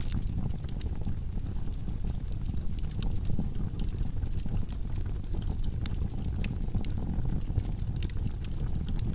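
Log fire burning in a fireplace: a steady low rumble of flames with frequent small crackles and pops from the burning wood.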